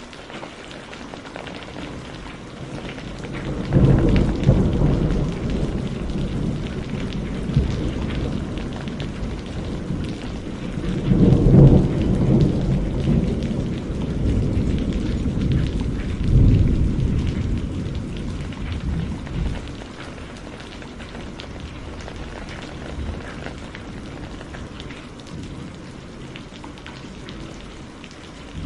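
Heavy rain falling steadily, with rolls of thunder rumbling in about four seconds in, again louder around eleven seconds and once more near sixteen seconds, then dying away to rain alone.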